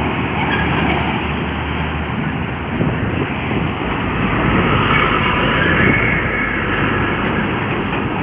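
Heavy trucks running along a highway: a steady mix of engine and tyre noise that swells about six seconds in as one passes closer.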